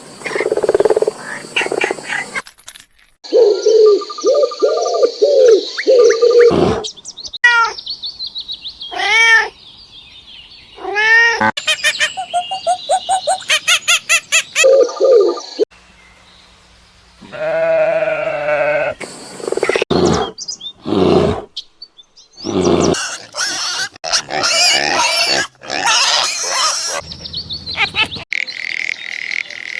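A string of short clips of different animal calls spliced one after another, each cut off abruptly and replaced by another animal's call.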